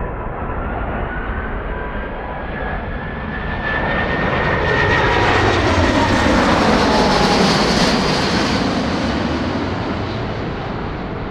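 Jet airliner passing close by: its engine noise swells to a peak about two-thirds of the way through and then eases off, with whining engine tones that drop in pitch as it goes past.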